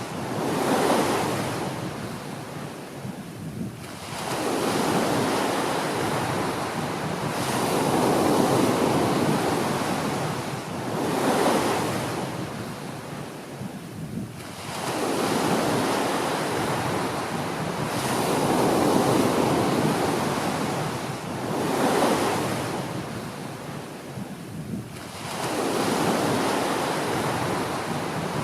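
Small waves breaking on a beach and washing up the shore, the surf swelling and fading every three to four seconds.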